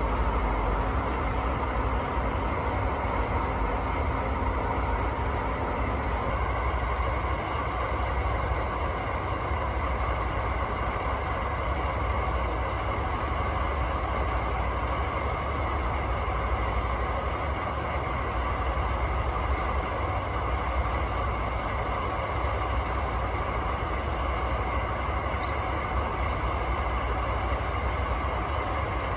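DD51 diesel-hydraulic locomotive's two V12 diesel engines idling steadily after start-up.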